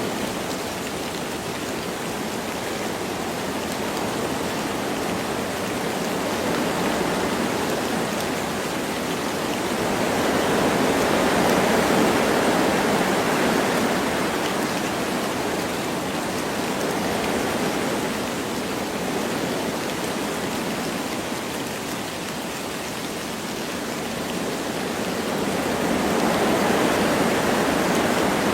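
Wind blowing through forest trees with light rain, a steady rushing that swells and eases in slow gusts, strongest about a third of the way in and again near the end.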